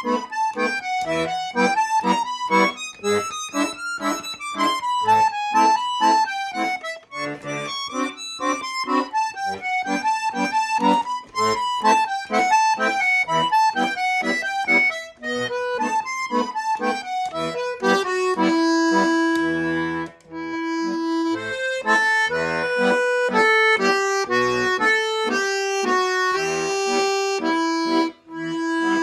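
Bayan (Russian chromatic button accordion) playing a folk melody solo: quick running passages at first, then, about two-thirds of the way through, slower held chords over a sustained bass note.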